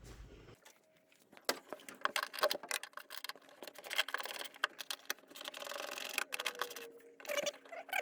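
Irregular metallic clicking and rattling with some scraping, typical of a ratchet wrench working a bolt and hand tools being handled.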